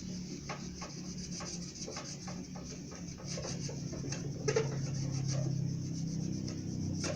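Sponge scrubbing the ceramic glass of a fireplace door with cleaning product: a rhythm of short rubbing strokes, about three or four a second, with a single louder knock about halfway through, over a low steady hum.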